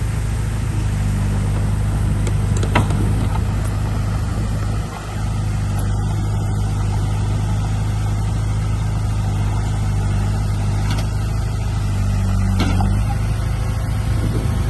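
Heavy diesel engine running steadily at a constant pitch, with a brief dip about five seconds in and a couple of short clanks.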